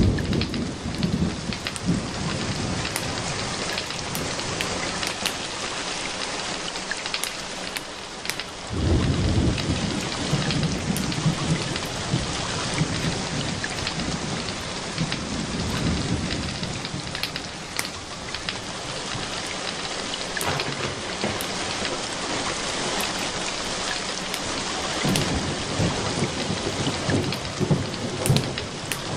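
Steady rain falling, with low rolling thunder rumbling from about nine seconds in for several seconds and again near the end. Scattered sharp crackles of a wood fire sound over the rain.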